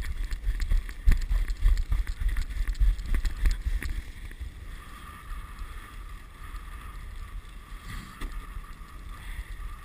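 Dog sled moving over a snow trail, with runners rattling and scraping and wind buffeting the microphone. It is loudest and bumpiest for about the first four seconds, and a steady high whine comes in about halfway through.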